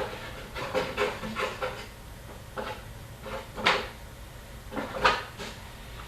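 Irregular light knocks and rustles from hockey card packs and boxes being handled and sorted on a table, a dozen or so short strokes at uneven intervals.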